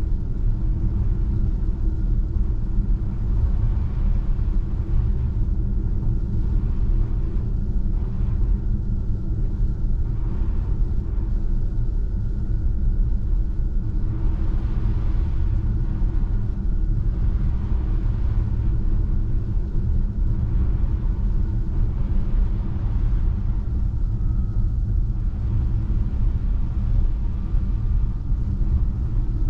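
Steady low rumble of a Tesla Model 3 driving on a snow-covered road: tyre and road noise from an electric car, with no engine note.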